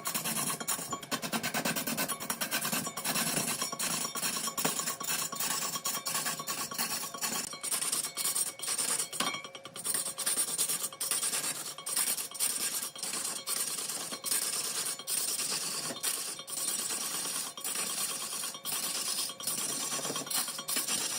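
Turning tool scraping and cutting spinning wood on a lathe: a continuous rasping scrape with rapid irregular chatter.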